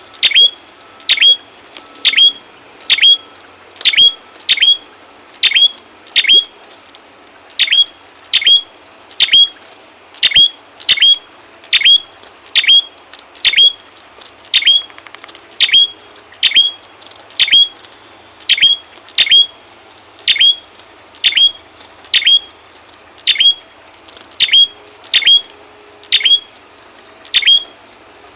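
Bird-lure recording of a prenjak kepala merah call: short, sharp, high notes that each sweep quickly downward, repeated steadily about one and a half times a second, often in pairs.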